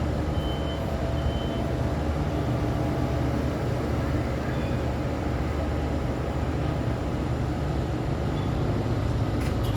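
City road traffic with heavy trucks: a steady low engine rumble and tyre noise from passing vehicles. A faint high beep sounds twice in the first couple of seconds.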